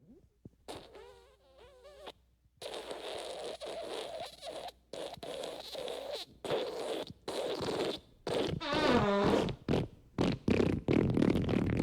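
A rapid string of fart sound effects, several separate blasts with short gaps between them, some with a wobbling pitch and one that falls in pitch about nine seconds in; they get louder toward the end.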